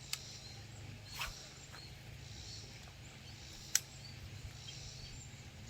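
Quiet outdoor ambience with a faint steady low hum and a few short sharp clicks, the loudest almost four seconds in.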